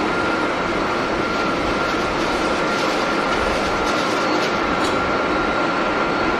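Jet airliner engines running, a steady rushing noise with a constant high whine through it.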